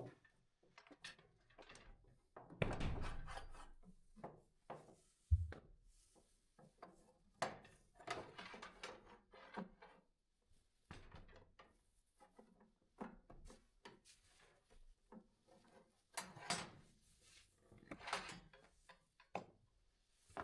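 Livestock pen panels being handled and fitted together: scattered knocks and scrapes, with a longer scraping clatter about three seconds in and a sharp thud about five seconds in.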